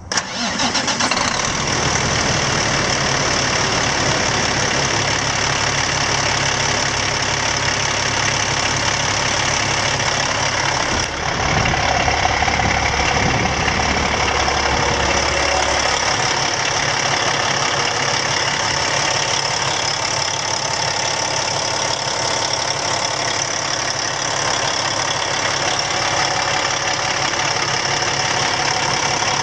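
Heavy truck's engine running steadily at idle. About eleven seconds in it gets louder and its note changes for a few seconds, then settles back to a steady idle.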